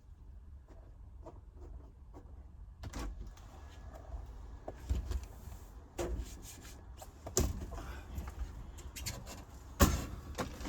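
Handling knocks and clunks: faint clicks at first, then a run of sharp knocks and thumps from about three seconds in, the loudest near the end.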